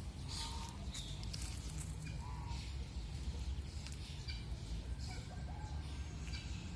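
Birds calling with short, scattered chirps over a steady low background rumble.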